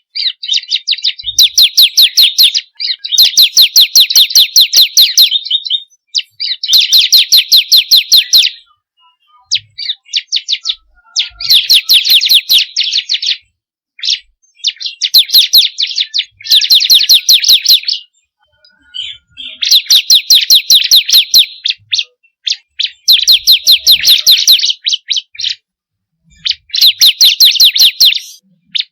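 Bar-winged prinia (ciblek kristal) singing: a string of fast, high, repeated-note trills, each phrase lasting one to two and a half seconds, with short pauses between them.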